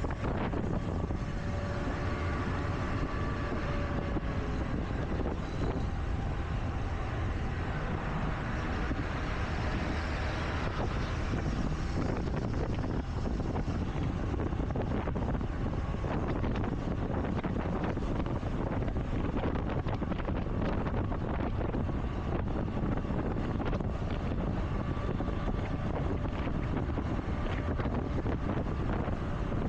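A scooter running on the move, under a heavy, steady rumble of wind on an action camera's microphone, with traffic around it. A faint whining tone comes and goes briefly near the start and again near the end.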